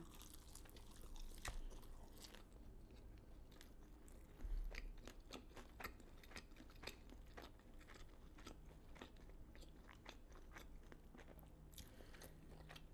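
Faint crunchy chewing: a person eating fried chicken and waffles, with many small, irregular crunches and slightly louder bites about a second in and again near the middle.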